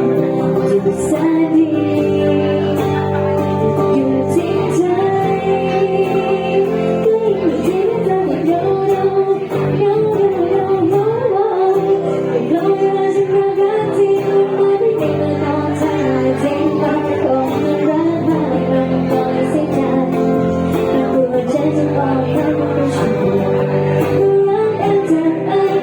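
A Thai song performed live: a voice, likely a woman's, singing a slow melody over guitar accompaniment.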